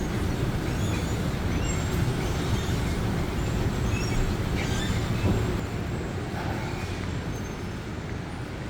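Steady low rumble of vehicle noise, cut in abruptly and cut off just after the end.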